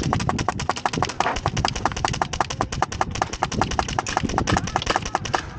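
Rapid airsoft gunfire: a fast, uneven stream of sharp clicking shots, about ten a second.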